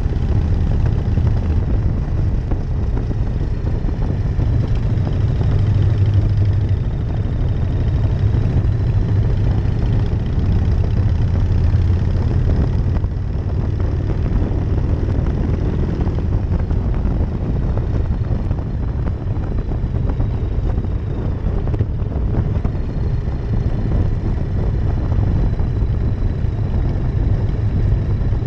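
1999 Harley-Davidson Night Train's V-twin engine running steadily under way, a deep continuous rumble heard from the rider's seat. Its note swells around five to seven seconds in and dips briefly about thirteen seconds in.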